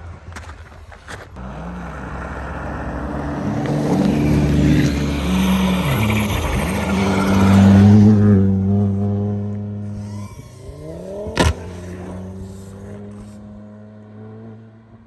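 A car engine revving up and down as the car drives close by, growing louder to a peak about eight seconds in and then fading away. A single sharp crack sounds a few seconds after the peak.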